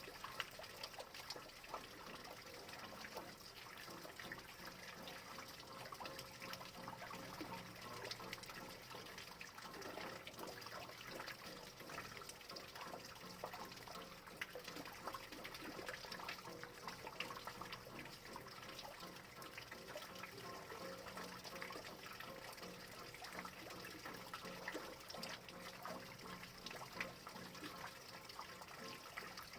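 Steady rain falling, with many individual drops landing as small sharp ticks over an even hiss.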